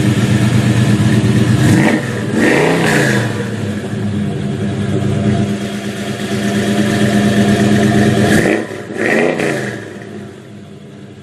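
Car engine running hard at steady revs, with the pitch dropping and climbing again twice, then fading out near the end.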